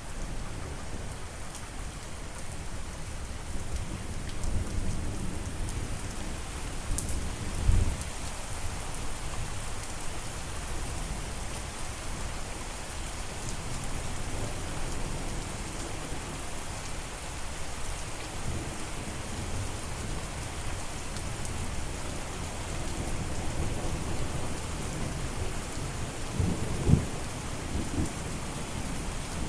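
Steady rainfall hissing over a surface, with low rumbles of thunder swelling and fading. Two short low thumps stand out, about eight seconds in and near the end.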